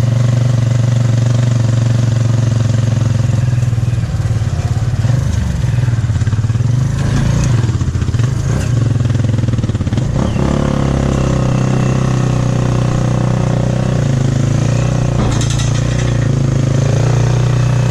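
Motorcycle engine of a Philippine tricycle (motorcycle with sidecar) running on the move, heard from inside the sidecar. A steady low hum that wavers and drops in pitch for several seconds midway, then settles steady again.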